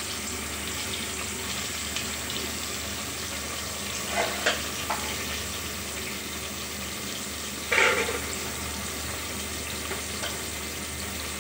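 Chopped onions and tomatoes sizzling in hot oil in an aluminium pressure cooker, a steady frying hiss. A few brief louder sounds come around four to five seconds in and near eight seconds.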